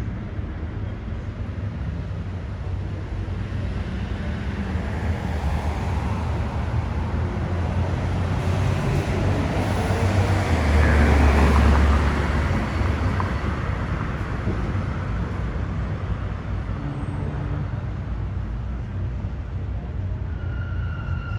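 Road traffic with one vehicle driving past: its sound builds, is loudest about halfway through with a deep low rumble and a falling pitch as it goes by, then fades back into the traffic.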